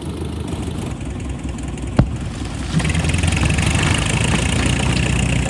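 Excavator's diesel engine running, with a single sharp click about two seconds in. From just before three seconds the engine grows louder for about three seconds with a high whine over it, then drops back near the end.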